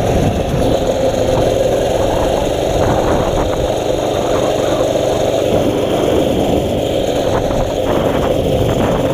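Mini bike's small engine running steadily while riding along, a continuous even drone over rushing noise.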